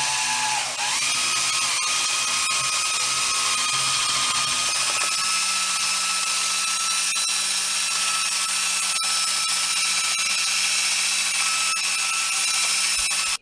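DeWalt power drill running steadily as it scours the bottom of a glass vase, roughening the glass so the epoxy will grip. Its whine dips briefly in pitch about a second in, then holds steady until it stops abruptly.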